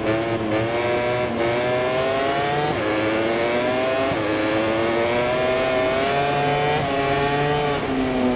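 MotoGP racing motorcycle's four-cylinder engine at high revs, recorded onboard. It accelerates hard, the pitch climbing in each gear and dropping sharply at every upshift, about five times.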